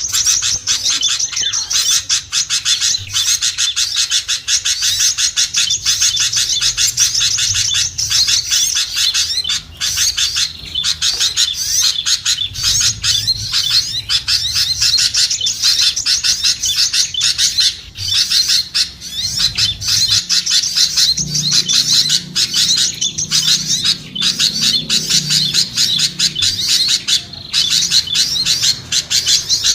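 A dense, unbroken chorus of small songbirds chirping and twittering rapidly and noisily, a bird-lure recording played to draw small birds down.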